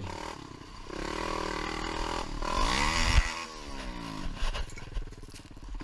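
ATV engine revving: its pitch climbs over about two seconds, then falls away as the throttle comes off. A single sharp knock comes near the peak.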